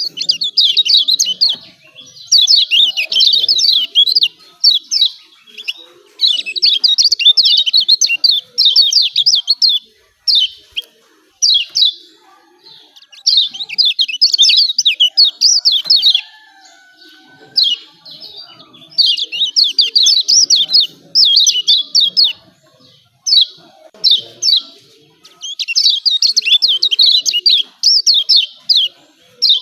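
Kecial kuning, a yellow white-eye, calling 'ciak ciak' in rapid runs of high chirps, one phrase every few seconds with short pauses between. It is the excited, emotional call that bird keepers play as a 'pancingan' to provoke reluctant white-eyes into singing.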